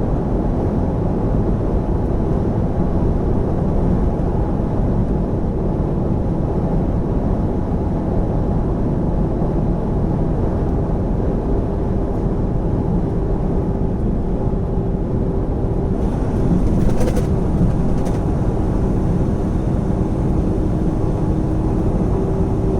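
Semi truck's diesel engine and road noise inside the cab: a steady low rumble, with a faint steady hum and a couple of brief knocks about seventeen seconds in.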